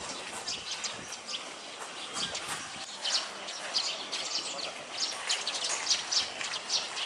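Small birds chirping, many short high calls in quick clusters, over steady background noise.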